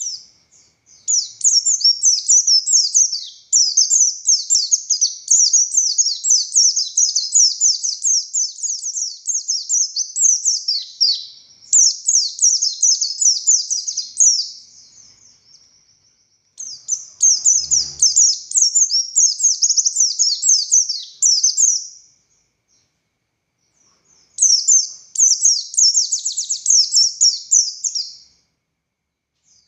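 Buxtoni white-eye (pleci) singing in long, fast, high twittering phrases, four bursts separated by short pauses. There is a faint low thud about midway.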